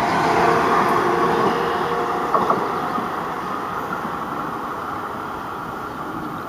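Metro-North M7 electric multiple-unit train moving away down the track: the rumble of its wheels and a steady motor whine fade, the whine dropping out after about a second and a half. A couple of wheel clicks come about two and a half seconds in, and the rumble keeps dying away.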